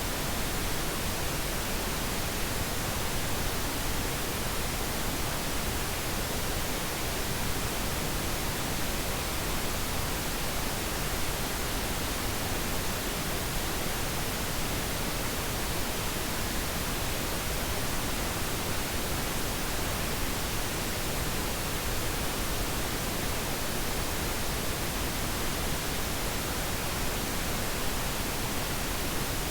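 Steady pink noise: an even, unchanging hiss spread across all pitches, with no events or rhythm.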